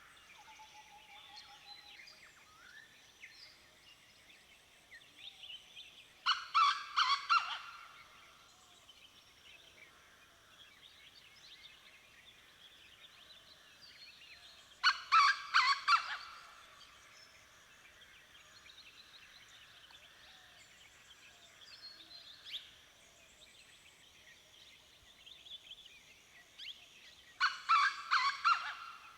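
Dawn chorus of many songbirds calling and singing together, with a much louder bird call, a rapid run of pulses lasting a second or two, breaking in three times about ten seconds apart.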